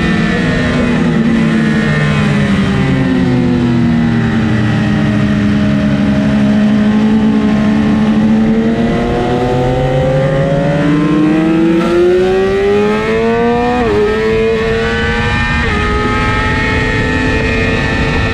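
Sport bike engine heard from on board: the revs fall slowly for several seconds, then climb again. Two quick upshifts come about fourteen and sixteen seconds in, after which the engine runs on steadily.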